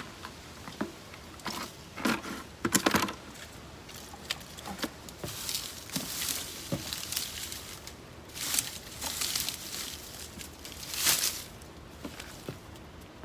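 Digging through potting soil in a container during a potato harvest: irregular bursts of rustling and scraping with small knocks, loudest about two to three seconds in and again around eleven seconds.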